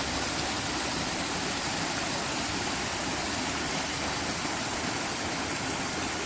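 Steady rush of running water, an even unbroken noise.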